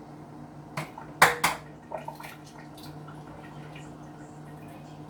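Hard-boiled eggs being cracked: a few sharp cracks of shell about a second in, the loudest in the middle, then some lighter ticks.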